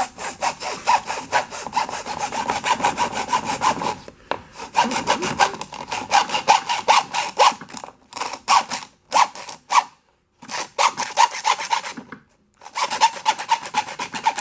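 Hand sawing: quick, rhythmic back-and-forth rasping strokes, about five a second, in several runs with short pauses between them.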